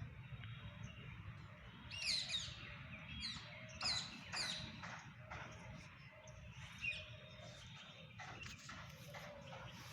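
Small birds chirping: a few quick, sharply falling high chirps in clusters about two and four seconds in, with scattered calls later, over a steady low rumble.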